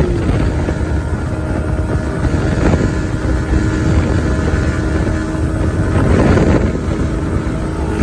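Kawasaki ZX-10R's inline-four engine running while riding, with wind buffeting the microphone; the sound swells briefly about six seconds in.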